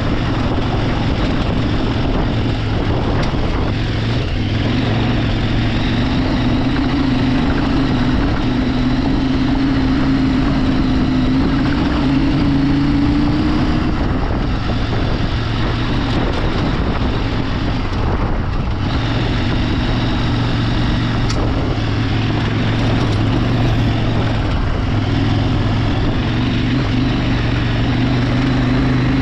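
Motorcycle engine running steadily under way, under a constant rush of wind and tyre noise. Its pitch climbs slowly, drops about halfway through, then holds steady again.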